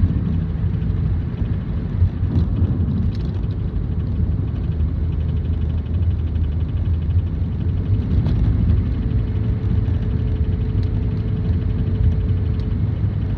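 2007 Toyota Prius running, a steady low rumble. A faint fast rattle comes in for a few seconds in the middle, and a faint steady whine is heard for about three seconds near the end.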